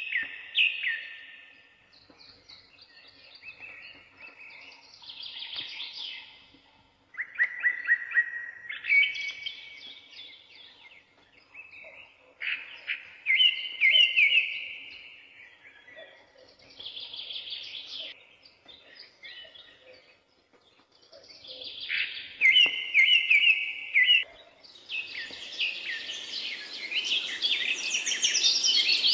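Birds singing: loud, varied song phrases every couple of seconds, turning into a busier chorus of several birds near the end.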